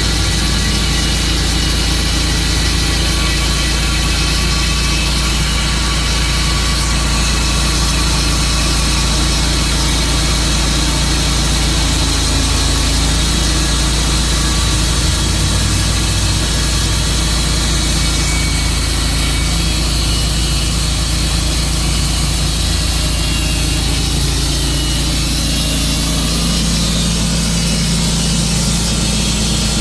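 Tru-Cut sawmill running steadily under power, its engine drone and sawing noise constant, with a slight change in the low hum near the end.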